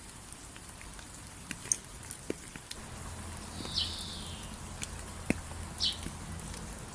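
Rain falling, a steady hiss with scattered sharp drops ticking close by. A bird gives a short falling call about four seconds in and another near six seconds.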